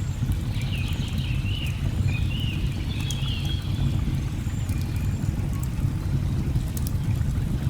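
Steady low rush of a waterfall, with birds chirping and warbling through the first half and faint scattered crackles of burning logs.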